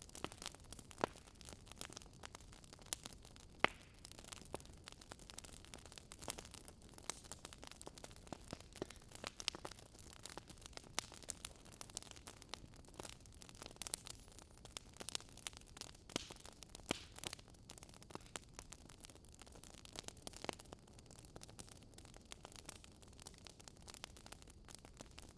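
Wood fire crackling, with irregular sharp pops and snaps over a low hiss.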